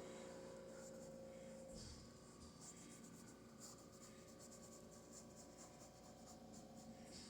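Faint, soft scratchy strokes of a paintbrush working acrylic paint on canvas, repeated irregularly over a low steady room hum.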